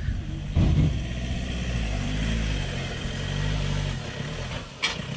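4x4 pickup's engine running steadily under load as it drives up over a steep slope, with a short surge in revs about half a second in. A single sharp knock near the end.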